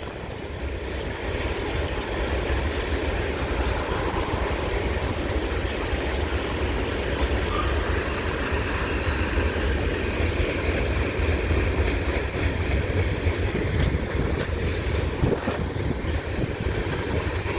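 Freight train cars rolling steadily past on the tracks below, a continuous rail rumble with wind buffeting the microphone.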